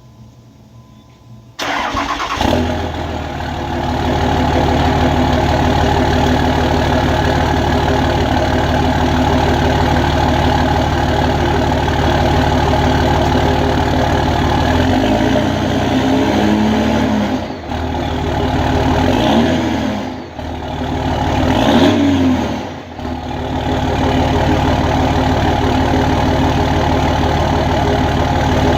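5.9 Cummins H.O. inline-six turbodiesel starting about a second and a half in, through a 4-inch straight-piped exhaust, then idling, with three short revs between roughly the middle and two-thirds through before settling back to idle. The engine is already warm, so this is not a cold start.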